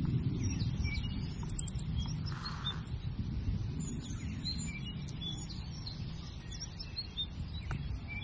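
Small birds chirping, short high calls scattered through, over a low rumbling noise that slowly fades.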